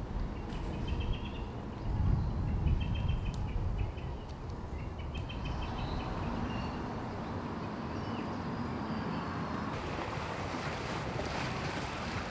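Outdoor ambience: a small bird sings short phrases of rapid repeated notes during the first half, over wind rumbling on the microphone. About ten seconds in, a broader steady hiss of outdoor noise takes over.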